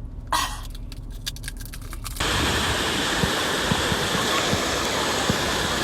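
Low hum with a few clicks, then about two seconds in an abrupt change to the steady rush of fast-flowing water.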